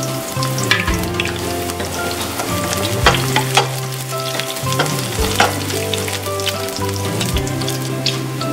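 Sliced garlic and shallots sizzling and crackling in hot oil in a stainless steel frying pan, with a wooden spatula stirring and a few sharp clicks. Background music with held, stepping bass notes plays underneath.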